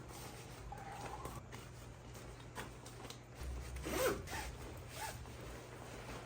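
A zipper being pulled, in several short rasping strokes, with a few soft handling clicks.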